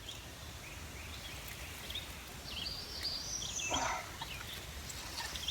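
Birds calling with short, high chirps over steady outdoor background noise, mostly from about two and a half to four seconds in and again near the end.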